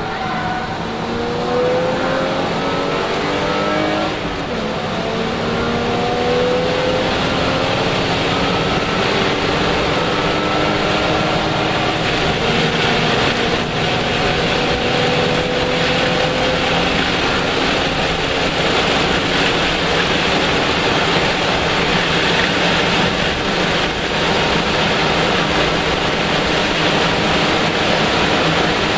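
Interior sound of a Lexus IS300 race car's straight-six engine under hard acceleration, rising in pitch through the gears with a drop at an upshift about four seconds in. Later the engine is held at speed under heavy wind and road noise in the cabin.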